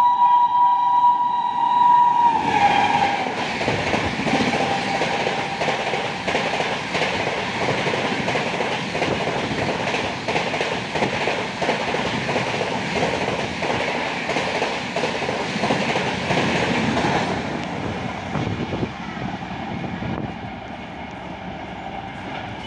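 Express train hauled by a WAP-7 electric locomotive: the locomotive's horn sounds steadily for about the first two seconds and drops slightly in pitch as it stops. The train then passes at speed with a loud, rapid clattering of wheels over the rails, which fades away over the last few seconds.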